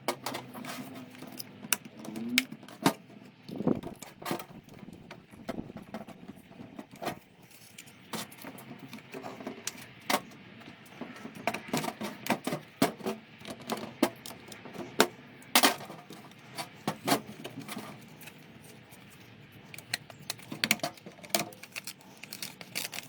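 Irregular plastic clicks, knocks and rattles of a Ford Mondeo Mk3 engine bay fuse box being taken apart by hand, its side clips released and its wiring loom pulled out of the casing.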